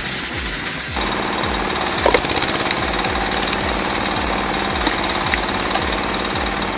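A machine running steadily with a rattling, jackhammer-like vibration, over a regular low beat of about three thuds a second; the sound changes character about a second in.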